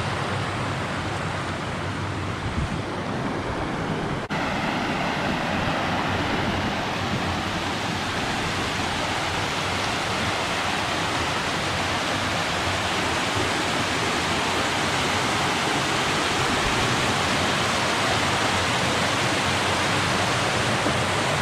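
A mountain creek rushing over rock in a steady, even wash of water noise, with a brief break about four seconds in.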